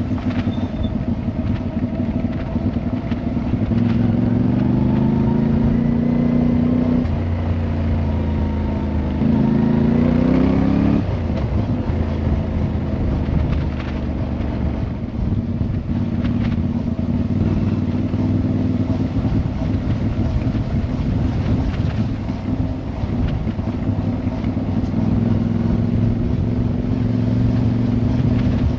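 Motorcycle engine running under way. The revs climb and drop sharply at gear changes about seven and eleven seconds in, then hold at a steady cruise.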